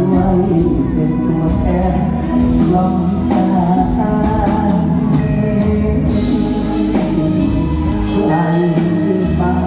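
Live luk thung–mor lam band music with a steady beat and singing.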